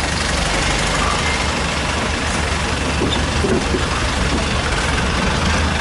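A small boat's engine running steadily with a low hum.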